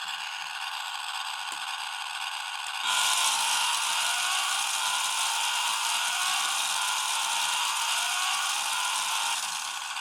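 Toy remote-control car's small electric motor and plastic gears whirring as it drives. The sound starts up about three seconds in and runs for several seconds, its pitch shifting slightly.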